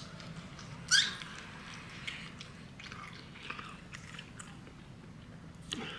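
A person chewing and biting food close to the microphone: short crunchy bites with mouth noises, the loudest bite about a second in and another just before the end.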